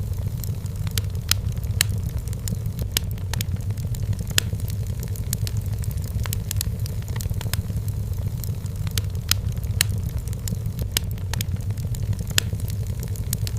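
Wood fire burning in a fireplace: many irregular, sharp crackles and pops over a steady low rumble.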